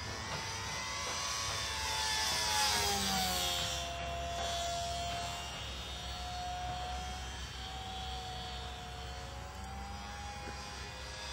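Extra 330L radio-controlled aerobatic airplane's motor and propeller in flight. Its drone rises in pitch and loudness over the first couple of seconds, drops in pitch about three to four seconds in, then settles to a steadier, gently wavering tone.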